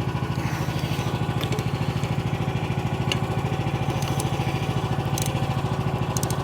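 Chinese micro excavator's engine idling steadily, with an even, fast pulsing beat.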